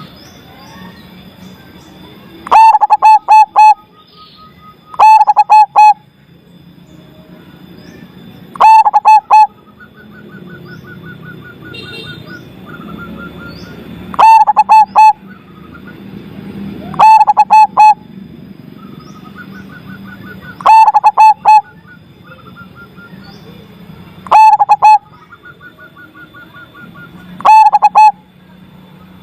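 Perkutut (zebra dove) cooing loudly, eight phrases of a few quick coos each, one every three seconds or so. A fainter rapid trill comes in between the phrases.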